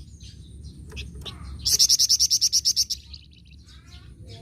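Flamboyan songbird singing in full voice: scattered high chirps, then, about a second and a half in, a loud rapid high trill of about ten notes a second lasting just over a second, over a low steady hum.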